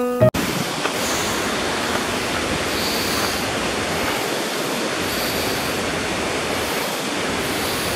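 Steady rushing noise of water from a mountain stream or falls, even and unbroken, beginning right after a short end of piano music.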